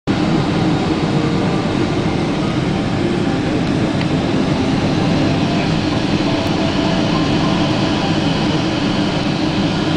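Steady cabin noise inside a Boeing 777-200ER airliner: the engines and rushing air make an even, loud rumble.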